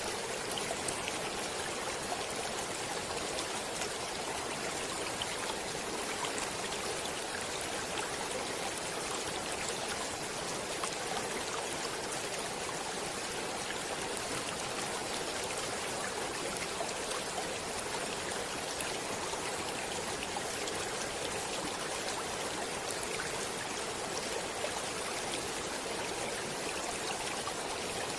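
Flowing stream water: a steady, even rush that does not change, with faint scattered ticks of small splashes.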